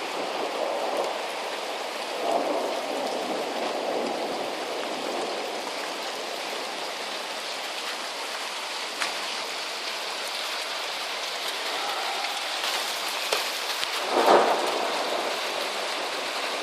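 Heavy rain falling steadily, with a brief louder swell about fourteen seconds in.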